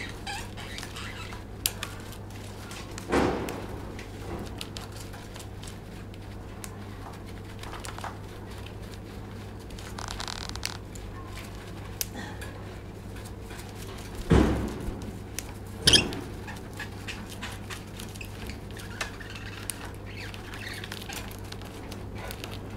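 A lovebird shuffling about on toilet paper: soft rustling and scratchy clicks, with a couple of dull thumps and one sharp click, over a steady low hum.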